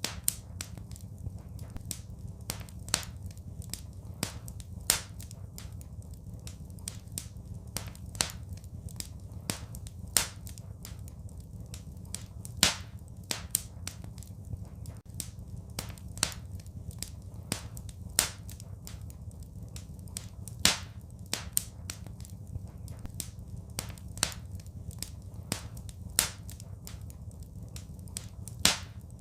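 Wood fire crackling: sharp, irregular pops and snaps, the loudest every second or two, over a steady low rumble.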